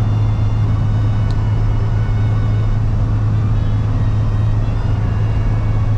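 Steady low engine and road drone heard inside a box truck's cab cruising at highway speed, about 70 mph.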